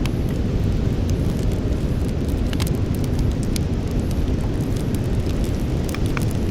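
Wood campfire burning, with scattered sharp crackles and pops at irregular intervals over a steady low rumble.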